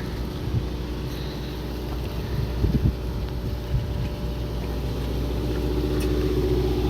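A fishing boat's motor running steadily, a low hum that grows slightly louder. A few dull knocks come in the middle.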